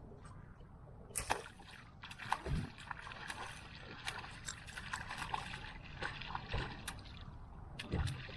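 Shallow floodwater splashing and sloshing in a run of short, sharp splashes that start about a second in and go on irregularly to near the end.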